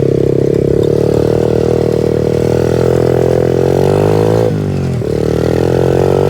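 Pit bike's small single-cylinder engine running under throttle. Its pitch climbs steadily for about four seconds, drops sharply, then climbs again.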